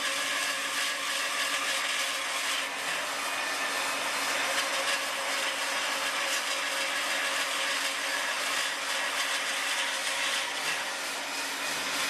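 Automatic profile drilling and cutting machine at work: a steady, even cutting noise with a constant hum underneath.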